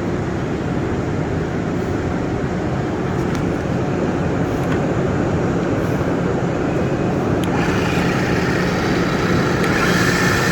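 Johansson gear-driven toolroom radial-arm drill press running under power, a steady low gear hum. About three-quarters of the way through, a higher whine and hiss join in and the sound grows a little louder.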